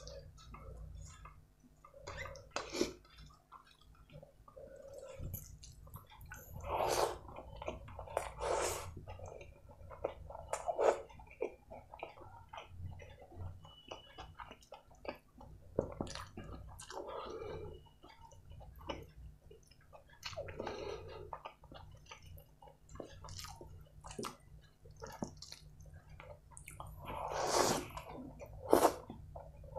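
Eating rice and butter chicken by hand: irregular wet chewing and mouth noises, mixed with fingers squishing and mixing rice and curry on a steel plate. The louder clusters come about seven, nine and eleven seconds in, and again near the end.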